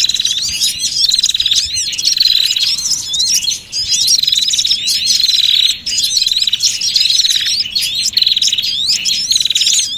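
Bird-trapping lure recording of many small songbirds calling at once: dense, overlapping high chirps and rising and falling whistles over a buzzy trill that repeats every second or two.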